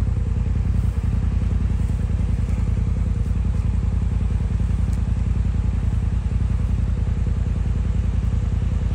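A vehicle engine running steadily with a low, even rumble, with no revving.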